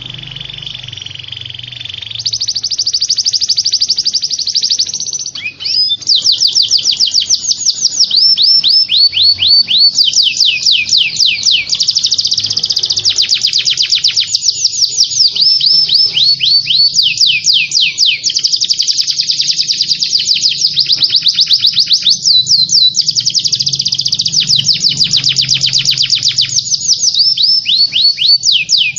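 Small songbird singing a long run of fast trills: quick notes sweeping down in pitch, changing pattern every second or two, quieter and buzzier for the first two seconds, over a faint low hum. A masteran tutor song played to teach cage birds to sing.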